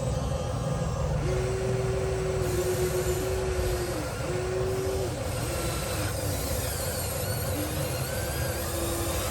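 Electric motors of a radio-controlled construction machine whining in a series of short runs, each about a second long and some dropping in pitch as they stop, over a steady low rumble.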